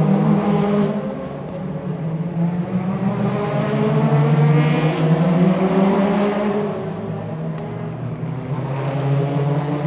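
V8 Supercars race car engines running on the circuit: a dense, continuous engine drone whose pitch drifts up and down as cars go past, with louder sweeps about five seconds in and near the end.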